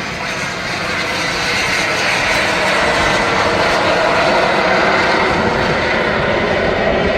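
Aircraft engine noise from an airplane at an air show. It grows louder over the first few seconds, then holds loud and steady.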